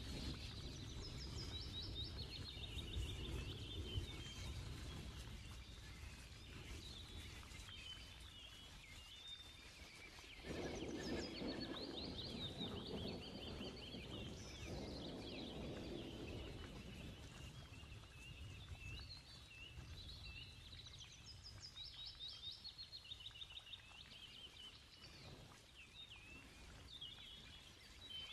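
Small birds chirping and twittering in repeated short phrases over a low background rumble, with a louder stretch of rustling noise from about ten to sixteen seconds in.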